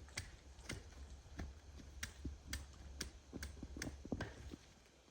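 Hand-tool work at the ground: a run of sharp knocks and clicks, roughly two a second, over a low rumble.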